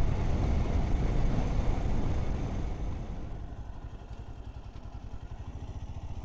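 Motorcycle engine running on the move, with wind and road noise; from about halfway the noise eases off, leaving the engine's rapid low beat.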